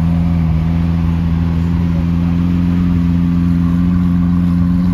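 Lamborghini Aventador's 6.5-litre V12 idling steadily, an even low drone that holds the same pitch and level throughout.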